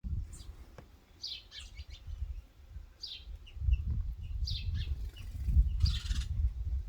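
Small birds at a feeder calling in short, high chirps that sweep downward, repeated every second or so, over a louder uneven low rumble.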